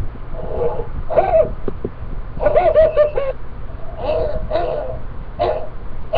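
A person's voice making silly vocal noises and laughing in several short bouts, played back from another video through computer speakers, so it sounds thin and cut off at the top.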